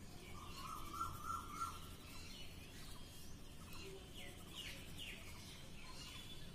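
Small birds chirping: a warbling call about a second in, then a run of quick falling chirps in the second half.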